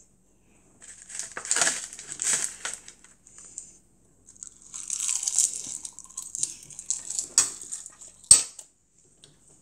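Close-up chewing of crunchy food by a child, in two crackly, crinkly spells, with one sharp knock on the table or dish near the end.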